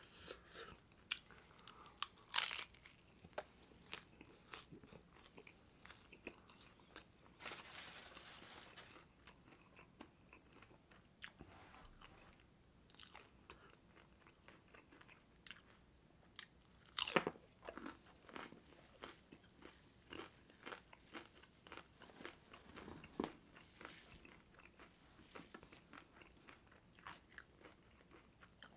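Close-up chewing of a crispy taco dipped in ranch: crunching, with wet mouth clicks and smacks throughout and a few louder crunches about two seconds in and again near seventeen seconds.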